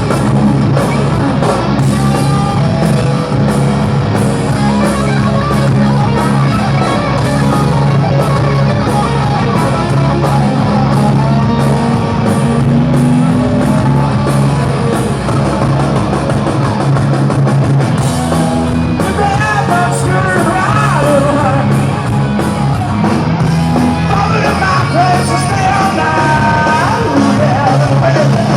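Live hard rock band playing loudly: steady drums and distorted electric guitar with singing, and bending high lines over the band in the second half.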